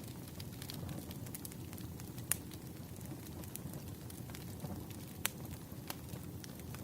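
Wood fire burning, with a low steady rumble and scattered sharp crackles and pops of the firewood, the loudest about two seconds in and again a little past five seconds.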